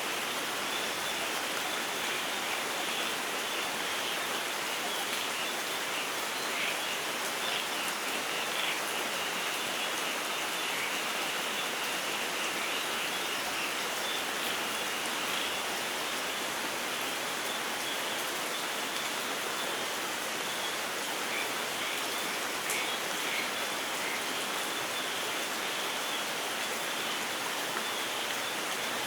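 Steady light rain falling, with faint short bird chirps scattered through it.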